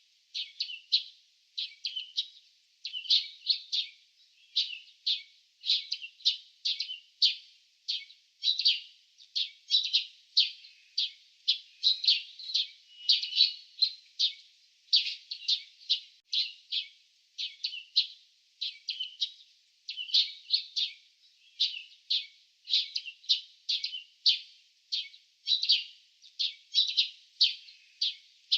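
Small birds chirping: a steady, unbroken run of short, high chirps, about one or two clusters a second.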